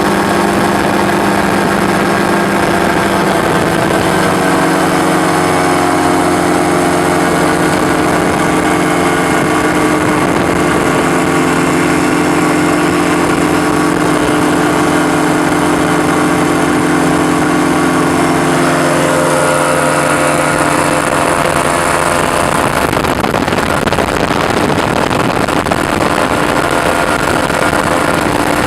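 Ultralight aircraft's engine running steadily in flight over a constant rush of noise. The engine note shifts about two-thirds of the way through.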